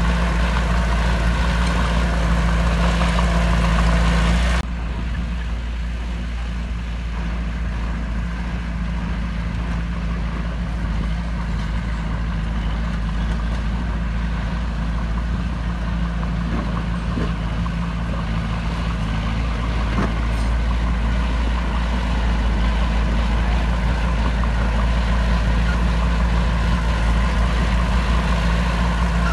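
Heavy diesel engine of earthmoving machinery running steadily with a deep drone. It drops abruptly about four and a half seconds in and carries on a little quieter.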